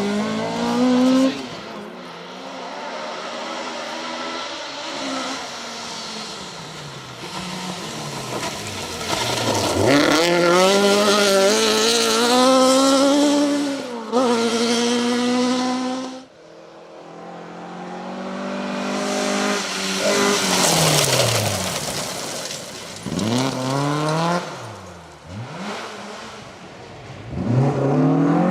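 Ford Escort Mk2 rally car engines revving hard on a stage, the pitch climbing and dropping sharply through gear changes as cars come through. Loudest in the middle stretch, and the sound cuts off abruptly partway through before another car is heard.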